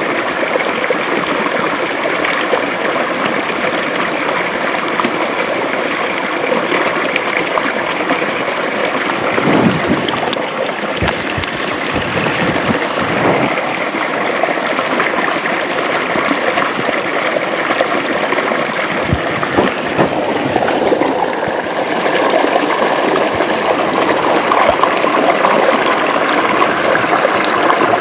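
Steady rush of a forest river and small waterfall flowing over rocks, with a few low bumps in the middle stretch.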